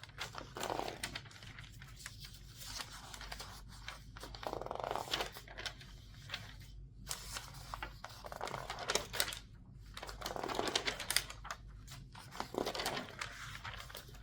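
Newspaper pages being turned quickly and squeezed, a run of rustling, crinkling swishes with about five louder sweeps, over a faint steady low hum.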